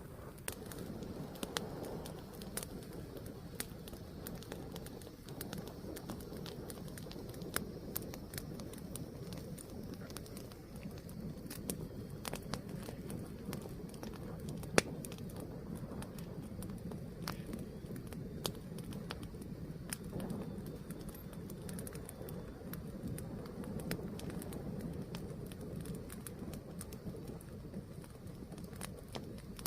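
Wood fire burning: a steady low rush of flames with irregular sharp crackles and pops from the burning wood, one louder pop about halfway through.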